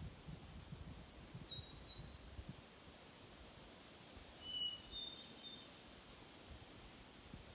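A songbird singing two short, high chirpy phrases a few seconds apart, over a low rumble on the microphone.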